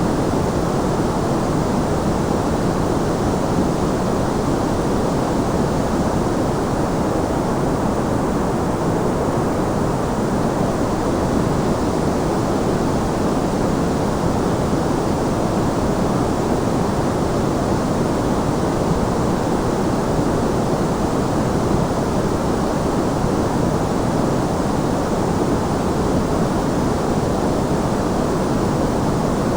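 Steady white-noise track: an even, unchanging rush, fuller in the low and middle range than in the highs.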